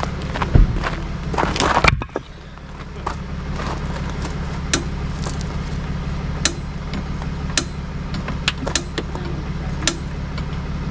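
A motor vehicle engine idling steadily, with scattered sharp clicks and knocks over it. A louder rushing clatter fills the first two seconds and stops abruptly.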